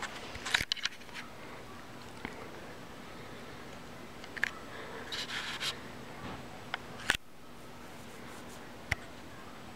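Hunter Ridgefield II ceiling fan running with a faint steady hum and airy hiss, with scattered sharp clicks and rustles on top, the loudest a little past the middle.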